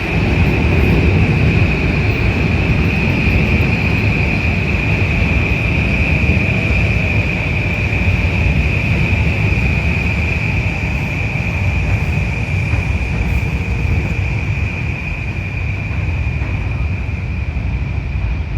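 Gusty wind buffeting the microphone with a heavy low rumble, over a passing Metro-North train and a steady high-pitched whine.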